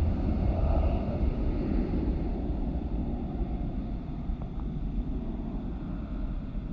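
Jet airliner's engines rumbling as it passes, the sound fading steadily as the aircraft moves away.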